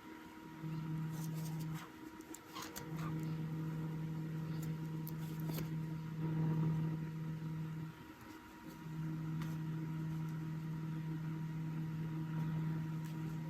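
A steady low hum that cuts in and out abruptly: on briefly about half a second in, again from about three seconds to eight, and again from about nine seconds on. A few faint clicks sound over it.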